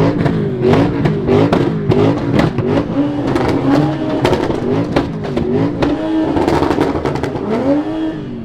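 Car engine revved again and again, its pitch rising and falling in quick blips, with sharp cracks throughout.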